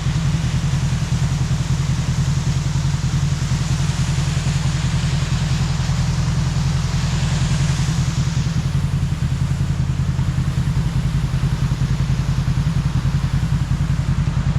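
Kawasaki KRX side-by-side's parallel-twin engine running steadily while driving, with a brief rush of higher hiss about halfway through.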